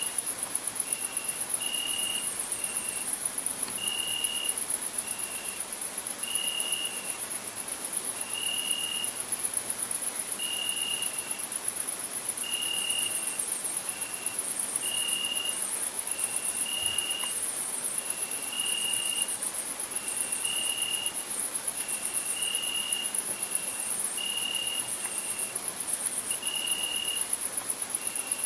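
Crickets stridulating in a continuous, high-pitched, fast-pulsing chorus. Over it, a lower short note repeats about once a second, alternating longer and shorter notes.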